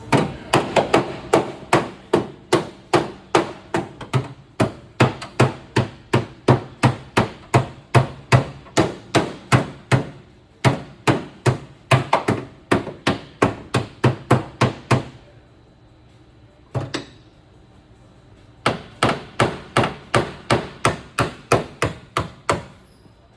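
Rapid hammer blows on the dented sheet metal of a Subaru Crosstrek's body as the dent is worked out, about two and a half strikes a second. The blows stop after about fifteen seconds. One lone strike follows, then another run of blows near the end.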